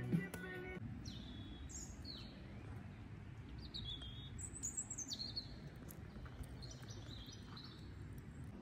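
Wild birds calling outdoors: several short, high chirps, some sliding down in pitch, scattered over a steady low background noise. Background music ends within the first second.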